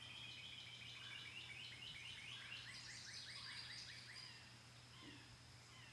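Faint birdsong: a long run of short, quick, falling chirps that fades out near the end, over a steady high thin whine.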